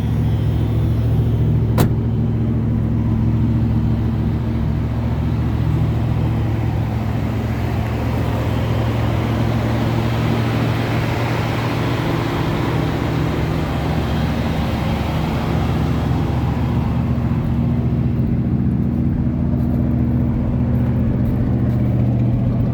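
1978 Ford Thunderbird's carbureted V8 idling steadily just after a cold start, its carburetor not yet warmed up. A single sharp click comes about two seconds in, and a rushing hiss swells and fades in the middle.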